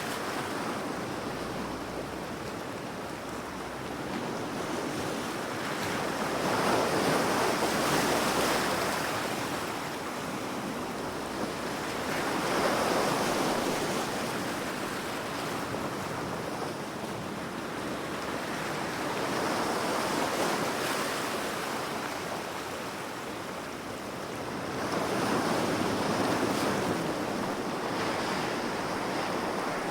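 Ocean waves breaking, a steady rush of surf that swells and falls back four times, about every five to seven seconds.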